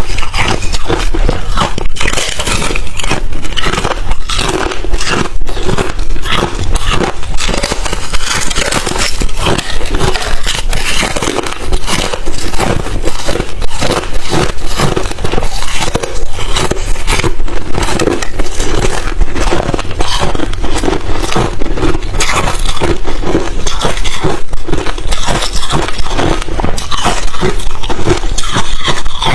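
Crushed, refrozen ice chips being chewed, a loud, dense, unbroken run of sharp crunches and cracks.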